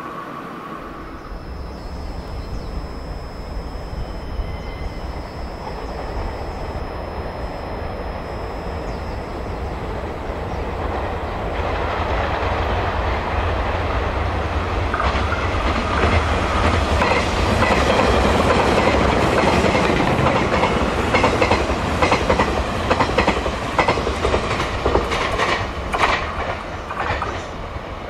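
Puyuma Express electric train passing at speed: a steady rumble and rush of wheels on rail that builds to its loudest about two-thirds of the way through, with rapid clickety-clack of wheels over rail joints in the later part. A thin steady high whine sounds over the first several seconds.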